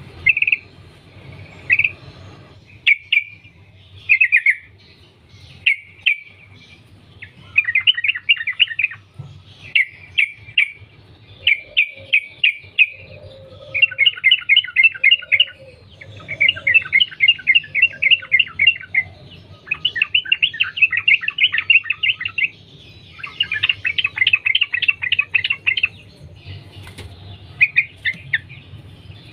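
Yellow-vented bulbul (trucukan) singing: a few short bubbly notes at first, then from about seven seconds in long, rapid chattering runs of song, repeated with short gaps and growing longer towards the end.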